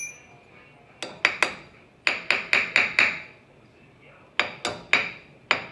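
Hammer tapping a chisel set on the lip of a metal wheel-hub dust cap, driving the cap onto a Toyota Tundra front hub. About a dozen light metallic taps come in three quick runs, each tap ringing briefly.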